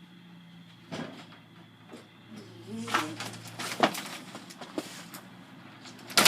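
A series of sharp knocks and thumps over a steady low hum, with one loud bang near the end.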